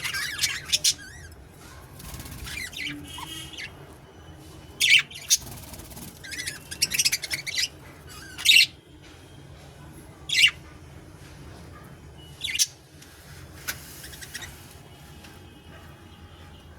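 Pet budgerigars calling: sharp, high chirps and squawks every second or two, with two longer stretches of warbling chatter.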